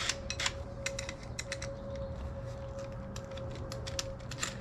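Scattered light clicks and taps of hand tools being handled, over a steady low hum.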